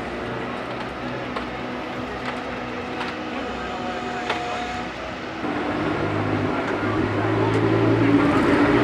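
Ferrari Challenge race car engines running at speed, a steady pitched engine note that grows louder about halfway through as a deeper note joins in.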